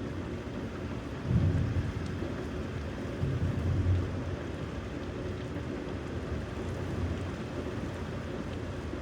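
Thunderstorm: steady rain with low rumbles of thunder. The rumble swells twice, at about a second and a half and again near four seconds.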